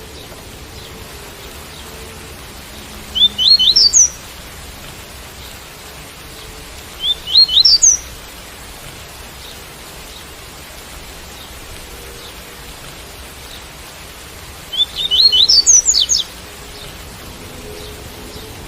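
Double-collared seedeater (coleiro) singing its tui-tui song: three short phrases of quick rising notes, about three and seven seconds in and again near the end, over steady rain noise.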